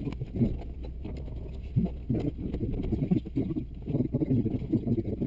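Cessna 172's piston engine idling on the ground, a steady low drone.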